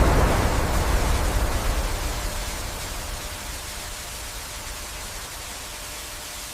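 Dense rushing noise, the tail of a sudden loud blast just before, fading slowly and evenly.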